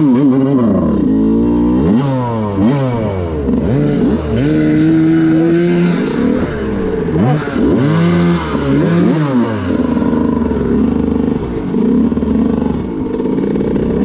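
Two-stroke dirt bike engine revving up and down again and again as the throttle is worked on a steep hill climb, settling to a steadier run for the last few seconds.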